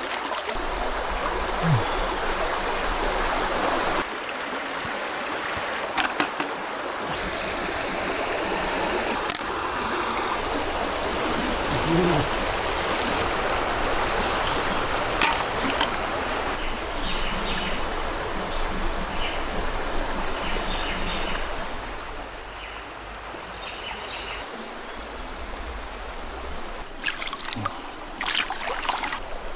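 Mountain stream water running and trickling, with a few sharp clicks and knocks.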